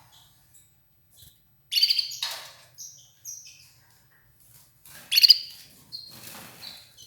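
Red ivory canary giving short chirping calls, with two louder bursts about two seconds in and again about five seconds in.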